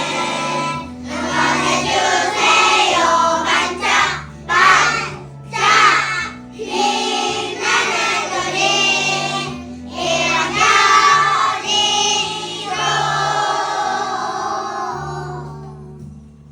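Children singing a song together over an instrumental backing track with a stepping bass line; the music fades out near the end.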